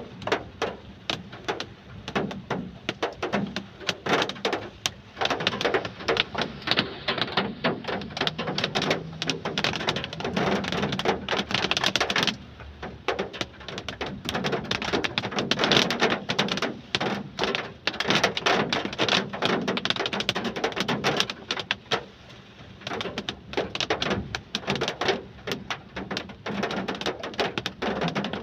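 Heavy rain, with dense, irregular patters of drops striking a hard surface close by, briefly easing twice.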